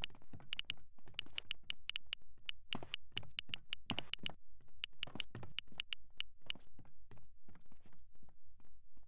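Steady rhythmic tapping, about three taps a second, with sharp high clicks among the taps until about two-thirds of the way through.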